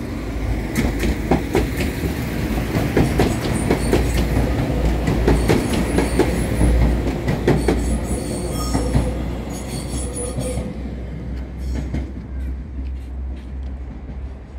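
Diesel passenger train passing close by: a low engine and running rumble with wheels clicking over rail joints and thin high wheel squeals at times, dying away after about ten seconds as the last car goes by.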